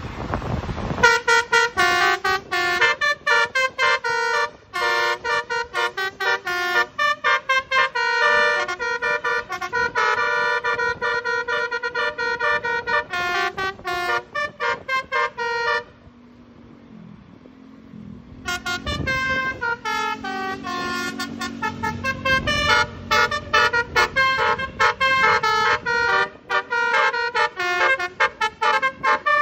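A bus's basuri (telolet) musical air horn playing a fast melody of short, clipped notes. About 16 s in it stops for a couple of seconds, leaving only a low engine rumble that rises and falls, then the horn tune starts again.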